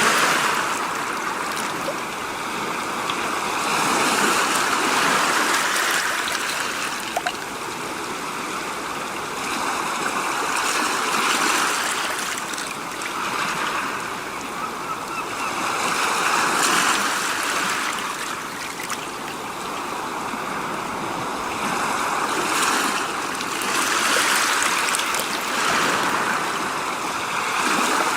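Rushing water noise that swells and eases every four to six seconds.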